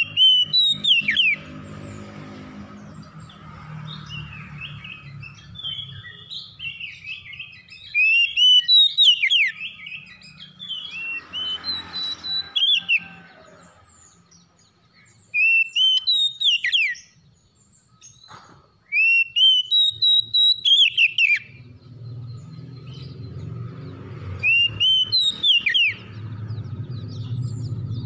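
Oriental magpie-robin (kacer) in full song: loud whistled phrases of short rising notes ending in quick falling sweeps, repeated in bursts every few seconds with short pauses. A low hum runs under parts of it.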